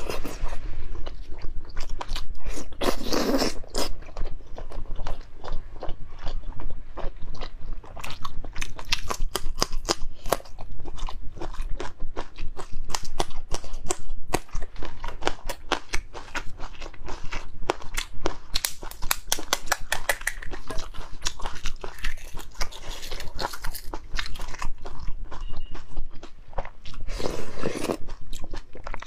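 Close-miked eating: crunching bites into raw red chili peppers and braised eggs, and chewing, with many sharp crunches in quick succession.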